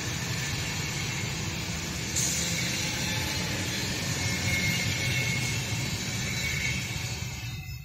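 Intercity passenger coaches rolling past on the rails as the train pulls away behind a BR 218 diesel locomotive, a steady rumble and rush of wheels. It gets louder about two seconds in, and a faint high squeal comes and goes in the middle.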